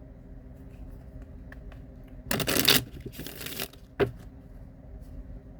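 Tarot cards being shuffled and handled: two short rustling rushes of cards about halfway through, then a sharp tap.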